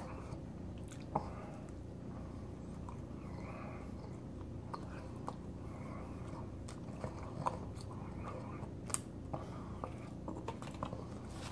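Close-up wet chewing of chicken with soft, irregular mouth clicks, over a steady low hum.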